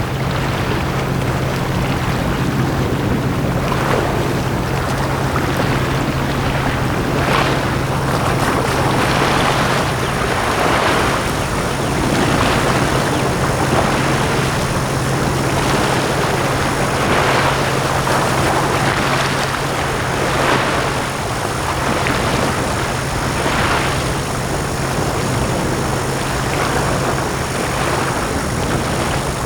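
Sea waves washing onto the shore, one surge of surf after another every second or two. A steady low hum runs beneath the waves.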